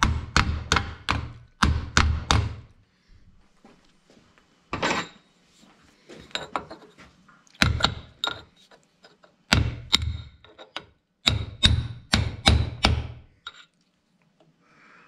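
Hammer blows driving a slotted spring pin into a tractor's gear-lever linkage, struck in quick runs of several blows with short pauses between.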